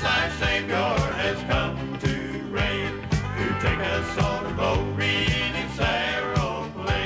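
A country gospel band playing an instrumental break between sung lines, with bass and a steady beat of about two strokes a second.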